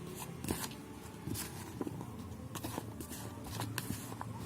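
Potato pieces being stirred with gram flour and spices in a bowl: irregular light taps and clicks over a low steady hum.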